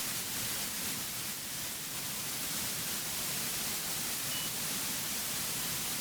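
Steady hiss of cockpit background noise in a light aircraft, even throughout, with no distinct engine note or other event standing out.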